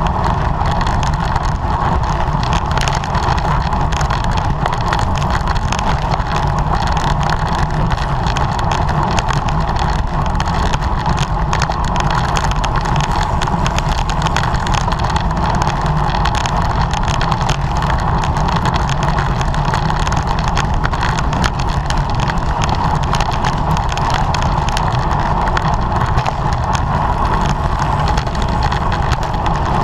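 Steady rush of wind and road noise on a camera riding with a racing bicycle during a criterium, with a low rumble and no letup.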